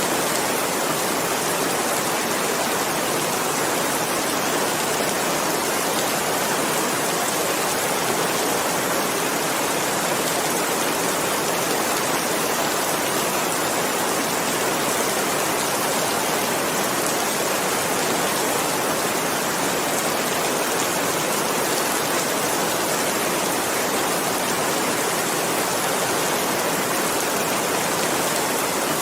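Steady, dense rain falling: an even hiss of many drops with no distinct single drips, thunder or changes in level.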